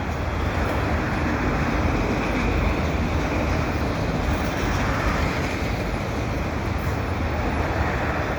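Freight train of auto rack cars rolling past, a steady rumble of wheels on rail, mixed with highway traffic.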